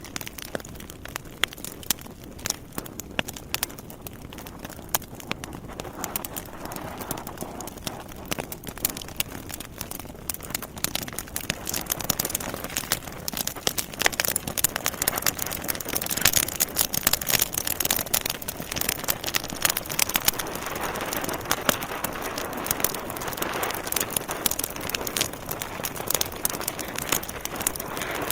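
Wood fire burning in a fireplace: a steady hiss of flame with dense, irregular crackles and pops from the burning logs, growing louder and busier about halfway through.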